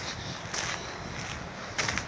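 Steady outdoor background hiss, with a short burst of hiss near the end.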